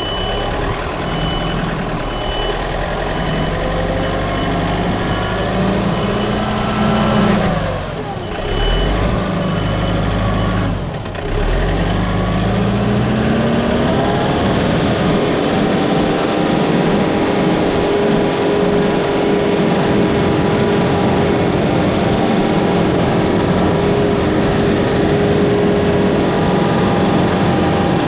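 An engine of a piece of heavy machinery running and being revved up and down twice, its pitch rising and falling. From about halfway through it settles into a steady run.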